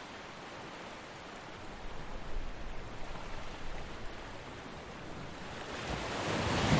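Ocean surf on a beach: a quiet wash of receding water, a small surge a couple of seconds in, then the next wave building and breaking near the end, louder and hissier.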